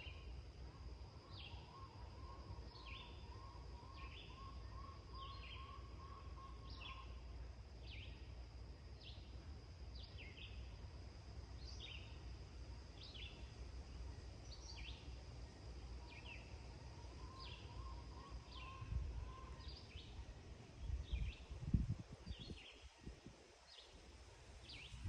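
Dawn birdsong: one bird repeats a short high chirp about once a second, and a softer, lower warbling trill comes and goes twice. A steady low rumble lies under it, with a few louder low bursts near the end.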